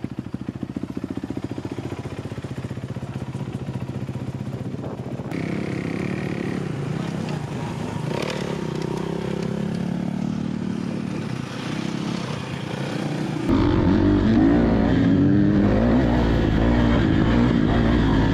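Dirt bike engines. One runs at a steady pulsing idle, then there is riding with the engine note rising and falling. The revving is loudest over the last few seconds.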